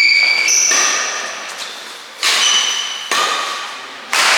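Badminton rally: rackets striking the shuttlecock about five times, roughly once a second. Each hit is a sharp crack with a ringing ping that echoes away in a large hall.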